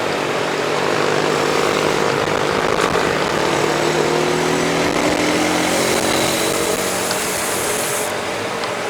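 Steady rushing noise of wind and rolling tyres during a mountain bike ride, with a motor engine's hum rising slowly in pitch through the middle and fading near the end.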